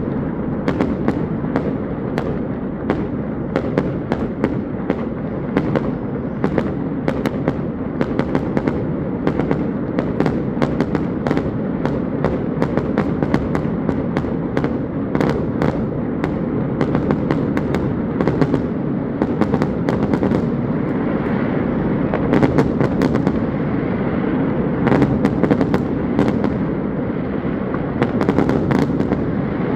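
Fireworks going off in rapid succession: many sharp bangs and crackles, several a second, over a continuous rumble.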